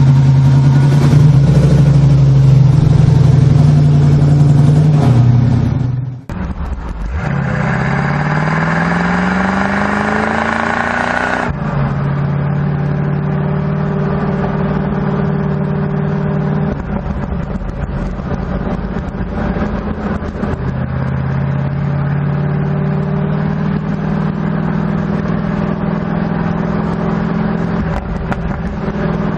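Muscle car engines in a string of edited clips: a loud, steady engine note, then after a sudden cut one car accelerating with its pitch rising steadily for about four seconds, then another steady engine note after a second hard cut.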